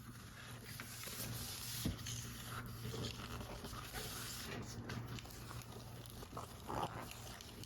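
Paper model parts being handled at close range: soft rustling and scraping of paper with small clicks and taps, the sharpest tap about two seconds in, over a steady low hum.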